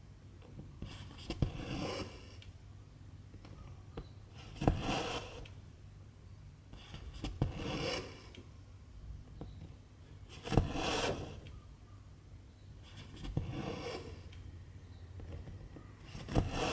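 Cross-stitching in silk thread on 11-count fabric: a needle punching through with a sharp click, then the thread drawn through with a rasping swish, repeated about every three seconds, six times.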